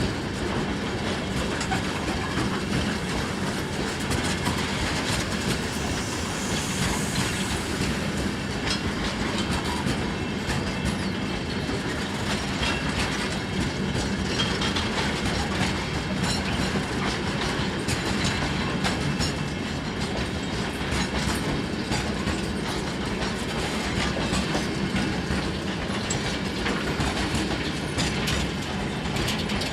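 Freight train wagons rolling steadily past, with wheels clicking over the rail joints the whole time.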